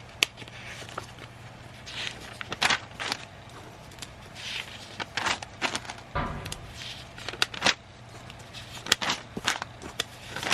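Paper rustling and crackling as sheets of old drawings are handled and shuffled through, with irregular small clicks and taps, over a faint steady low hum.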